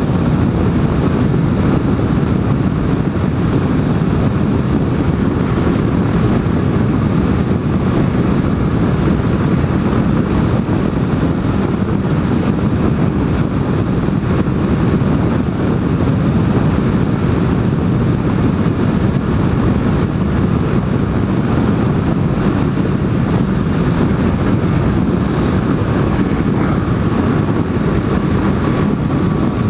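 Motorcycle riding at a steady speed: engine and wind rushing over the rider's microphone as one steady, loud noise.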